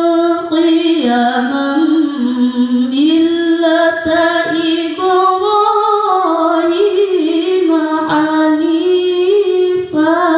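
A female voice reciting the Quran in melodic tilawah style, unaccompanied, drawing out long held notes with wavering ornaments that glide up and down in pitch.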